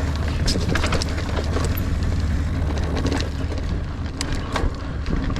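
Niner Air 9 RDO 29er mountain bike being ridden on dirt singletrack: tyre noise with scattered clicks and rattles from the bike over a steady low rumble.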